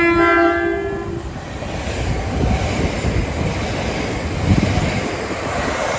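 A pair of Class 375 Electrostar electric multiple units passing through at speed. A single horn note sounds for about a second at the start, then the train rushes by with steady wheel-on-rail noise.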